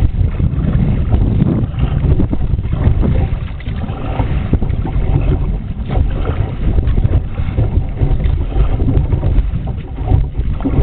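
Wind buffeting the microphone on an ocean kayak, with irregular water splashing and sloshing over it.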